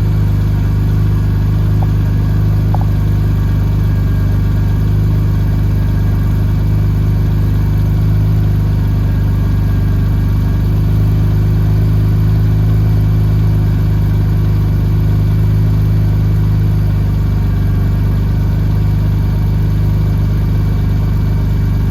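2001 Porsche 911 Turbo's twin-turbocharged flat-six idling steadily after a cold start.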